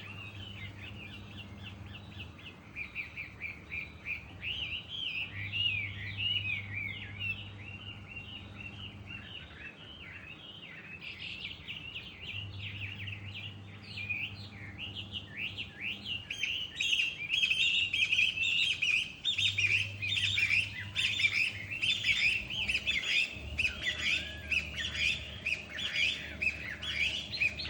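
Many small wild birds chirping and twittering at once, growing busier about halfway through. Underneath, a washing machine's low hum comes and goes every few seconds.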